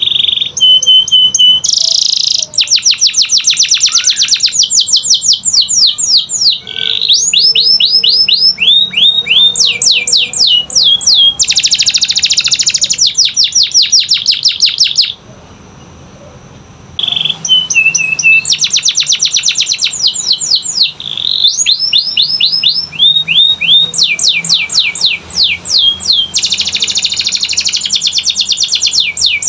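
Canary singing a long, loud song of fast repeated high-pitched trills and rolls, breaking off for about two seconds midway, then resuming.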